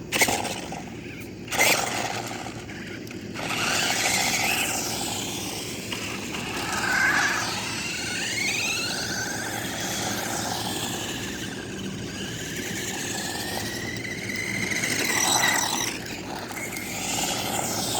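Small electric motors of toy RC cars whining, the pitch gliding up and down as they speed up and slow, over the hiss of their wheels on the road. Two sharp knocks in the first two seconds.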